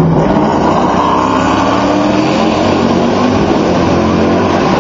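Race car engines running hard out of a tight hairpin, several engine notes overlapping and rising in pitch as the cars accelerate.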